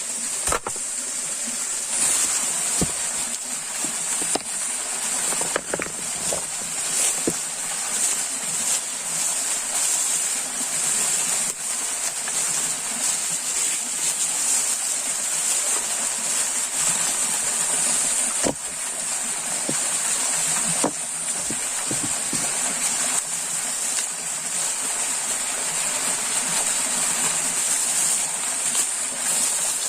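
Outdoor ambience of running water, with a steady high-pitched hiss throughout and scattered light clicks and knocks.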